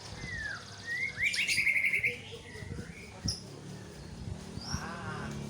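White-rumped shama singing: a couple of sliding whistles, then a loud, rapid trill about a second in, followed by a few short high notes and a brief lower call near the end.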